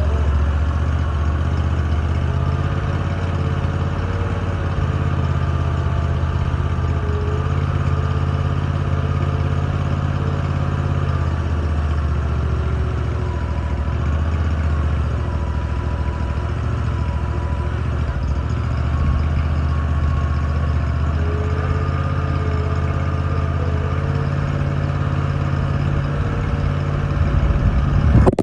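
A large engine idling steadily, its low running sound even, with faint tones that drift slowly in pitch.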